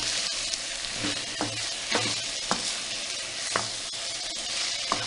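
Chicken frying in hot oil in a kadai with ground chili and turmeric, sizzling with a steady hiss while it is stirred, the stirring strokes scraping the pan every half second to a second.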